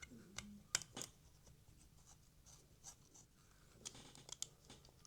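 Faint, scattered clicks and scratches of a small screwdriver undoing two tiny screws that hold a plate on an OO gauge model locomotive.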